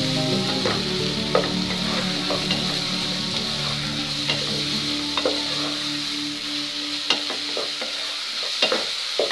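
Chopped onion, tomato and ginger-garlic paste sizzling in hot oil in a nonstick pan while a wooden spatula stirs them, with irregular scrapes and taps of the spatula on the pan. The masala is being fried down until the onion and tomato turn soft and mushy.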